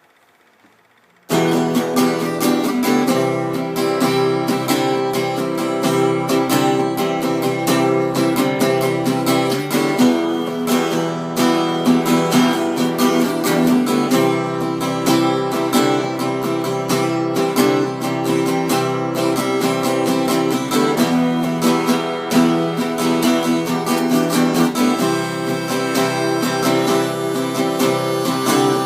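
Acoustic guitar music with picked and strummed chords, starting suddenly about a second in and running on steadily.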